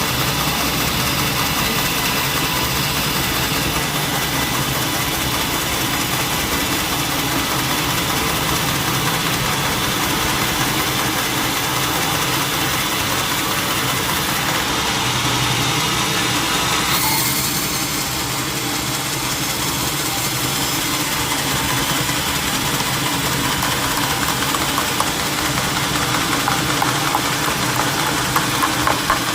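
Engine-driven sawmill machinery running steadily. The tone shifts about halfway through, and a few knocks come near the end.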